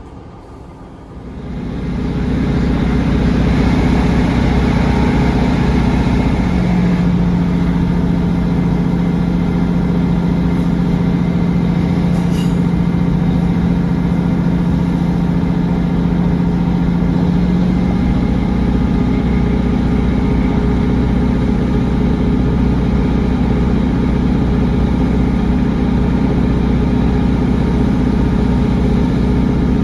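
Class 150 Sprinter diesel multiple unit on the move, heard from inside the passenger saloon: the underfloor diesel engine drones with wheel-and-rail rumble. It gets much louder about a second or two in, then holds steady, with a low steady hum prominent through the middle.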